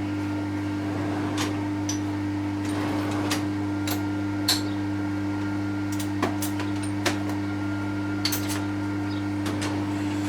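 Steady electric machine hum, with scattered light metallic clicks and taps from tools and parts being handled.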